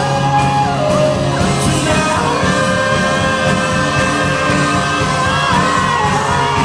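Live pop-rock band playing with a voice singing long held notes that slide between pitches.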